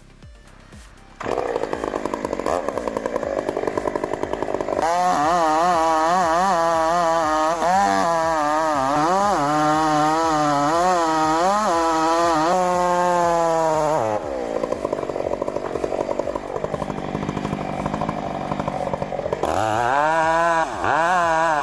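Chainsaw cutting through wood: it starts about a second in, and its engine pitch rises and falls as the chain bites and bogs in the cut. It drops back to a lower running level about two-thirds of the way through, then revs and cuts again near the end.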